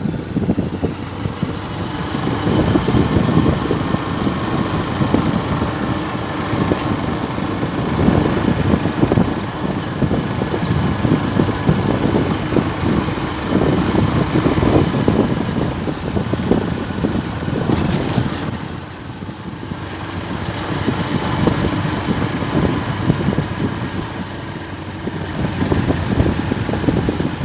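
Vehicle running on the road, its engine and road and wind noise heard from on board, easing off briefly about two-thirds of the way through.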